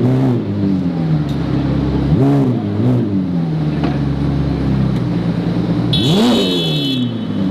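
Supercar engine idling and being revved in short blips: one right away, two more about two and three seconds in, and a longer, higher rev about six seconds in.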